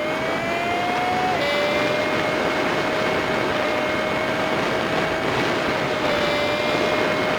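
Honda Super Cub 50's small single-cylinder engine running under way, heard sped up five times so it comes across as a high steady whine over wind and road noise. The pitch climbs, drops in a step about a second and a half in as the bike shifts up, then holds steady.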